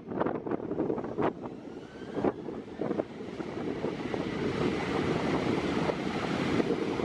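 Boeing 737-800 jet engines running: a steady rush that grows gradually louder, with a few short sharp knocks in the first three seconds.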